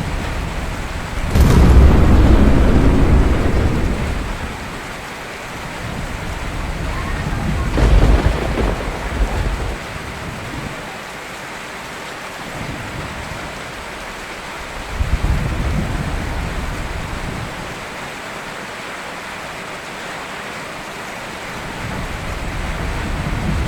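Steady rain with thunder: a sharp crack about a second and a half in that rolls into a long rumble, another rumble around eight seconds, and further, weaker rumbles later on.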